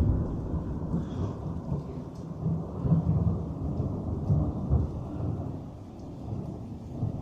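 Thunderstorm: a long, uneven roll of thunder rumbling and swelling, with rain falling underneath, easing a little near the end.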